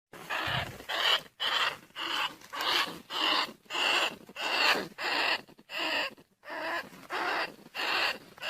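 Field-rat lure call: a recording of rats squealing, short harsh squeaks repeated about one and a half times a second, played to draw rice-field rats and bandicoot rats in.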